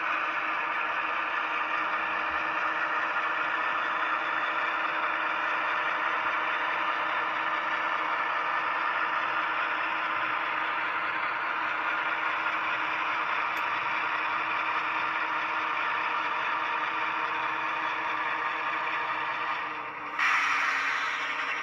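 HO-scale GE ES44AC model locomotive's LokSound 5 sound decoder playing diesel engine running sound through its small speaker as the model moves off along the track, with mechanical clatter from the model running on the rails. About 20 seconds in, a louder rush of noise comes in briefly.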